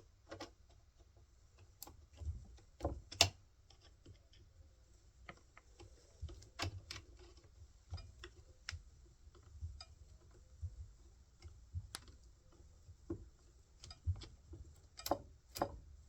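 Scattered light clicks and knocks of chainsaw parts and hand tools being handled during reassembly, irregular, with small clusters of sharper knocks about three seconds in and near the end.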